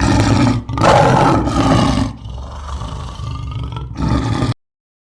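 Lion roaring: a loud, rough roar with a short break about half a second in, easing into lower rumbling and rising again before it cuts off suddenly about four and a half seconds in.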